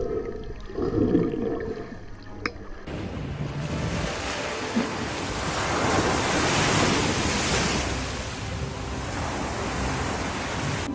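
Ocean surf and wind noise on the microphone at sea, a steady rushing that swells about halfway through. It comes in abruptly about three seconds in, after a couple of short low sounds.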